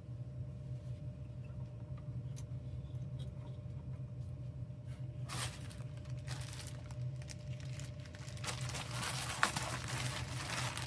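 Rustling and crinkling handling noises, starting about five seconds in and growing denser and louder near the end, over a steady low hum.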